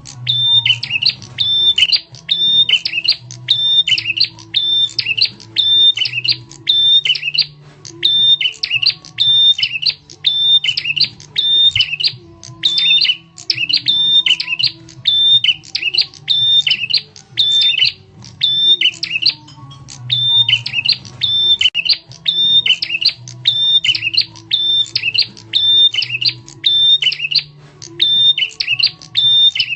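Bar-winged prinia (prenjak tamu) calling over and over, a loud, sharp note about three times every two seconds, each with a held high tone that dips at the end. A faint low hum lies beneath.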